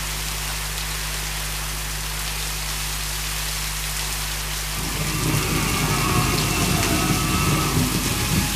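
Heavy rain falling steadily, an even hiss of water on leaves and ground. About five seconds in, a low rumble comes in underneath, with faint tones above it.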